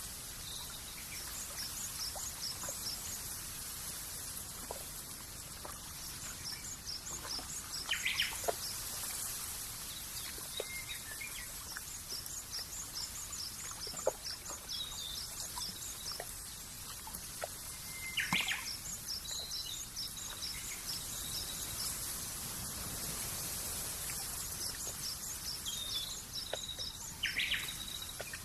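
Countryside ambience of small birds: runs of rapid, high-pitched repeated notes come and go, with a few short chirps in between, over a steady soft hiss.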